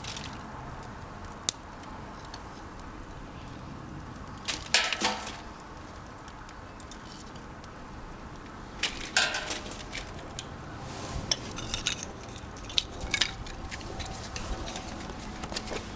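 Wood fire burning in a steel washing-machine-drum fire pit, with sharp crackles and pops coming irregularly, a cluster about five seconds in and a run of them in the second half.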